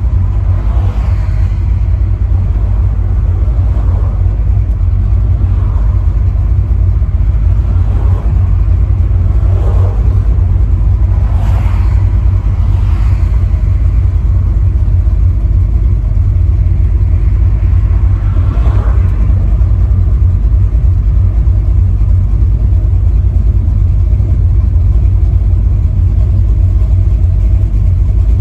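Chevy Vortec V8 crate engine in a Chevy LUV pickup running with a loud, steady deep rumble. A few brief rising sounds come about 10, 12 and 19 seconds in.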